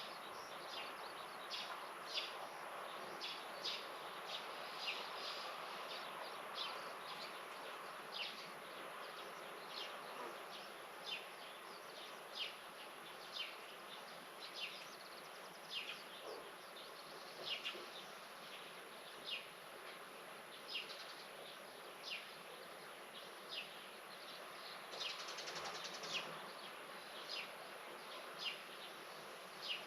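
Spring garden ambience: a bird repeating short high chirps, about one or two a second, over a steady low hum.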